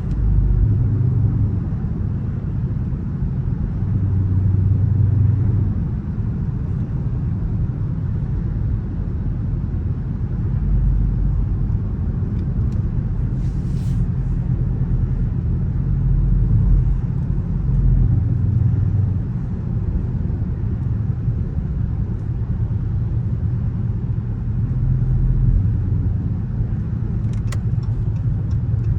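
Dodge Charger R/T's 5.7-litre HEMI V8 running as the car drives, a low rumble that swells and eases several times with the throttle, with road noise beneath it. A short hiss comes about halfway through and a few light ticks near the end.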